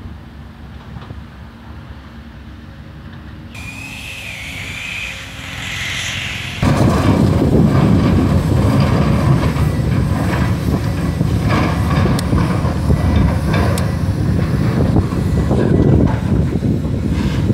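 Sany SR150C crawler rotary drilling rig travelling on its steel tracks: the engine runs with a low rumble, a wavering squeal starts a few seconds in, and about a third of the way through the track clanking and rattling suddenly gets much louder and stays loud.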